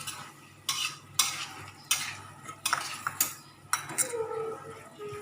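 A utensil stirring papaya flowers and sardines in a cooking pan, knocking sharply against the pan about seven times.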